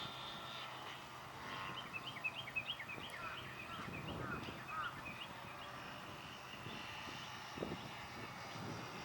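Faint drone of a distant model aircraft's motor that fades out early, then a bird calling a quick series of short chirps for a few seconds, over low wind noise on the microphone.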